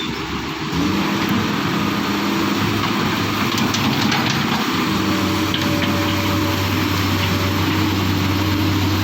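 Excavator's diesel engine running under work, its note rising and getting louder about a second in, then holding steady. A few faint clicks come about four seconds in.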